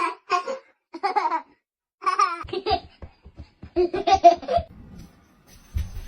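A person laughing in a run of short bursts.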